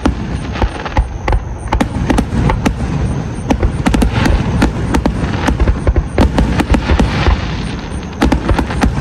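Fireworks going off in rapid succession: many sharp bangs and crackles tumbling over one another, with heavy low booms underneath.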